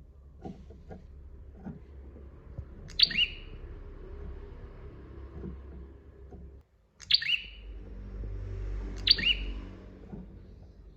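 Prinia (prenjak) calling: three sharp, loud call notes, one about three seconds in and two more about two seconds apart near the end, over a low steady rumble.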